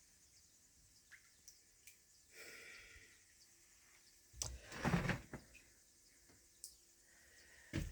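Shallow floodwater sloshing and splashing in a flooded basement: a soft swish about two and a half seconds in, then a louder cluster of splashes about halfway through.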